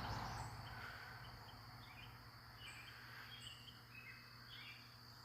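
Faint outdoor ambience: scattered short bird chirps over a steady, faint, high insect drone.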